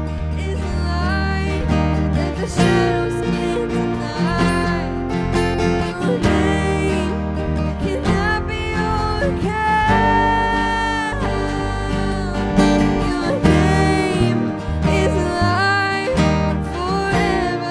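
Worship band music with acoustic guitar over sustained bass notes and a wavering melodic line, with no clear sung words.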